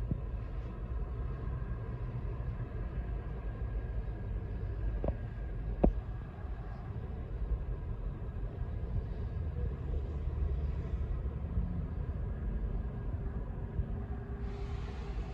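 Steady low rumble of road traffic, with a short sharp click about six seconds in.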